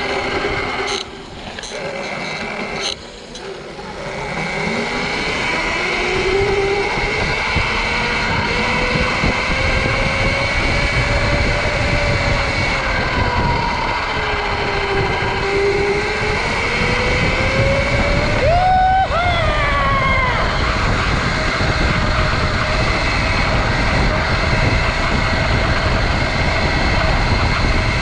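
Sur-Ron electric dirt bike's motor whining while riding, its pitch sliding up and down with speed. About two-thirds of the way in it jumps sharply higher as the bike accelerates. Under it runs a steady rushing noise.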